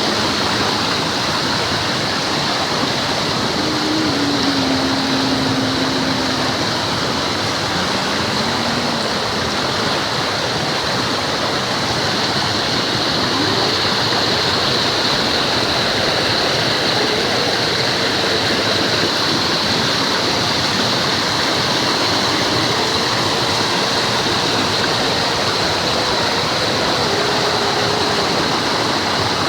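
Mountain stream rushing steadily, a loud, even wash of water noise.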